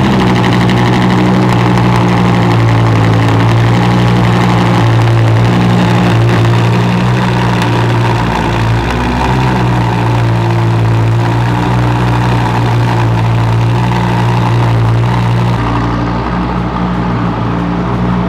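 Audi R8 engine idling steadily just after starting. It is the car's first start after sitting unused for years, run off a jump box.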